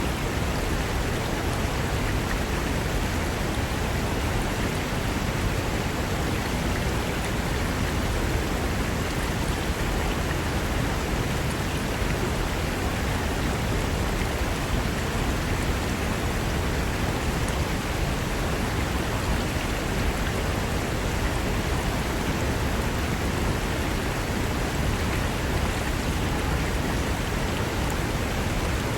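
Fast mountain river rushing over rocks: a steady, unbroken roar of water with no lull or change in level.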